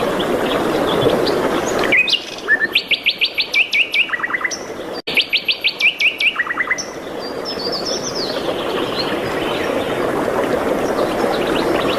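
Songbirds singing: about two seconds in, a bird gives a fast trill of quick down-slurred notes, about ten a second, ending in a lower run of notes, and repeats it after a brief sharp break. A steady rushing background noise drops out during the trills and comes back with scattered chirps and another fast trill near the end.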